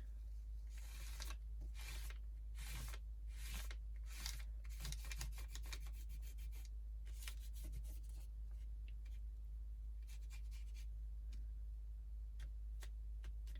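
Paper tag rubbed and pressed face-down against a craft surface to pick up wet ink, in irregular short scuffing strokes.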